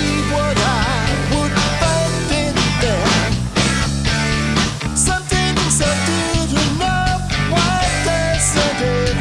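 Rock band instrumental passage: electric guitar, bass and drums come in together at the start, with a lead line that bends and wavers in pitch over a steady drum beat.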